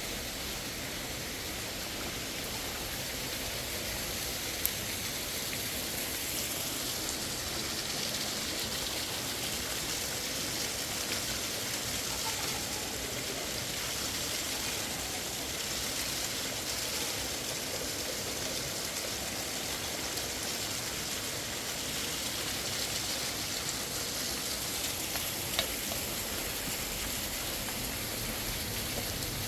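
Steady hiss of running water, even throughout, with a single faint click about five seconds in and another near the end.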